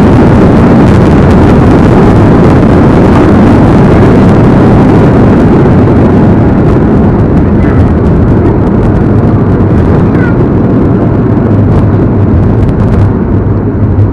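Loud cabin noise of the landing rollout on a Boeing 737-8 just after touchdown: the CFM LEAP-1B engines in reverse thrust, with the rumble of the wheels and braking on the runway. The noise slowly loses its hiss and eases off near the end as the aircraft slows.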